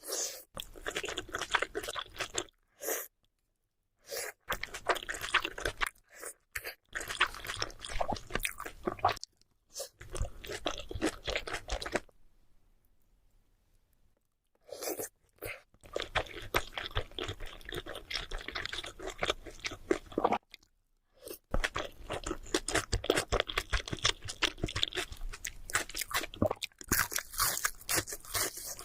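Close-miked chewing of sushi: moist, clicky mouth sounds with bites and crunches. They stop for several brief silences, the longest about two seconds near the middle.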